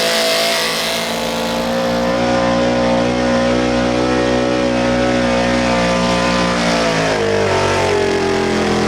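Super street 4x4 pulling truck's engine running hard at high revs under load, holding a steady pitch, then the revs fall away from about seven seconds in as the pull ends.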